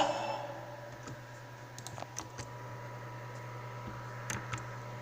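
The tail of music fades out right at the start. Then a few faint clicks follow, a small cluster about two seconds in and another just past four seconds, over a steady low hum.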